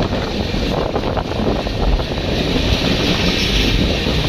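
Passenger express train running, heard from on board: steady rumble of the coaches on the track with wind buffeting the microphone.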